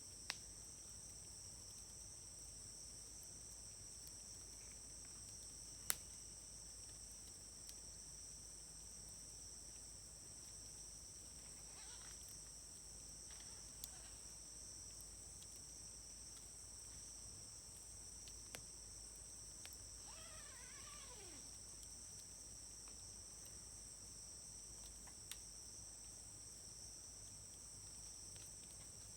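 Wood fire burning quietly in a fire grill, giving a few sharp isolated pops, the loudest about six seconds in. Insects trill steadily in the background, and a short wavering call falls in pitch about two-thirds of the way through.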